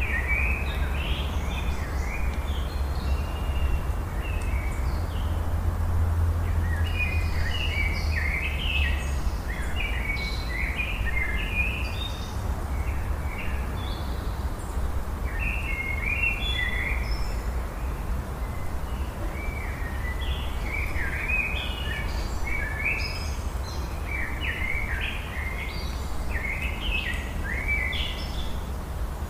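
Outdoor nature ambience: many small birds chirping and twittering in quick, scattered calls over a steady low rumble. The calls thin out for a few seconds around the middle, then pick up again.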